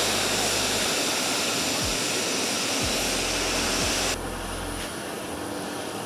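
Jet aircraft engines running with a steady rushing roar, which turns quieter and duller about four seconds in.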